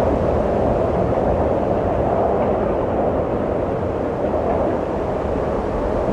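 Steady low wind blowing, a dense rushing noise that eases a little in the middle.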